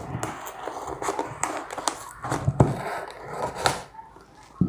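Cardboard package being handled while the sealing tape on it is cut: a string of scrapes, crackles and sharp clicks, with a louder knock near the end.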